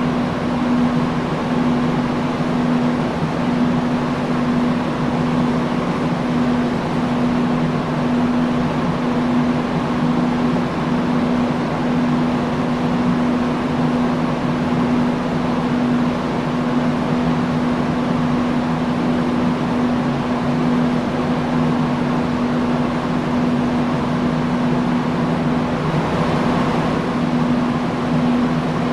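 Industrial fan running steadily: a constant rush of air over a low, even motor hum.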